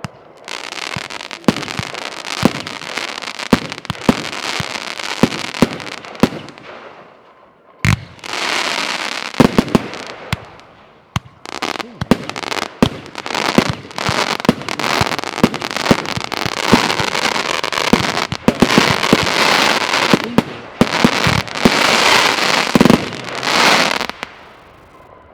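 Nordlicht 'Der Hooligan' F2 fireworks battery firing: a dense string of sharp shots and bursts over crackling, with two brief lulls, stopping abruptly near the end.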